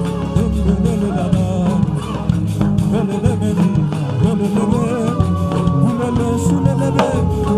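Live worship music: instruments playing a steady, sustained accompaniment with voices singing over it.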